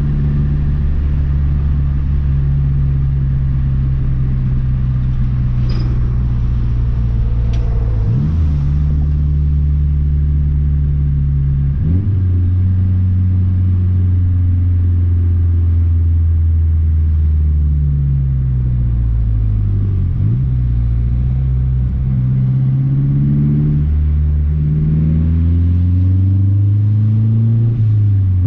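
2012 Mazdaspeed 3's big-turbo 2.3-litre four-cylinder engine under way: a steady drone with two sudden rises in pitch about a third of the way in, then a long climb in revs under acceleration that falls away at a gear change near the end.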